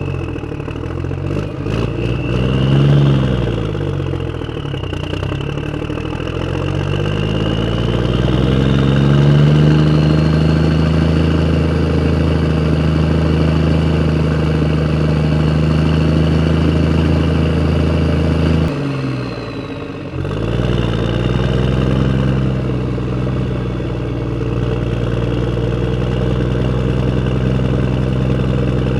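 An engine running with a low, even pitch. It rises and falls in speed a few seconds in, then holds steady, cuts off abruptly about two-thirds of the way through, and picks back up about a second and a half later.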